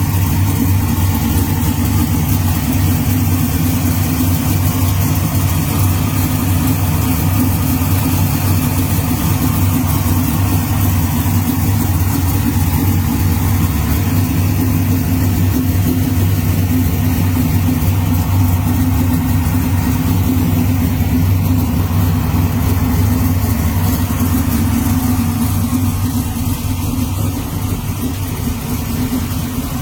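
Stroked 410 cubic-inch Ford Windsor V8 with a Stage 3 camshaft idling steadily, slightly quieter near the end.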